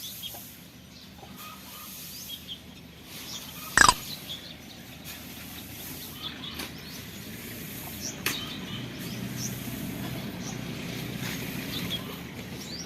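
Birds chirping now and then over a low, steady rumble, with one sharp knock about four seconds in.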